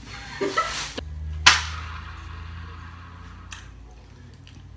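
A short vocal exclamation, then a single sharp snap about one and a half seconds in, with a fainter click a couple of seconds later.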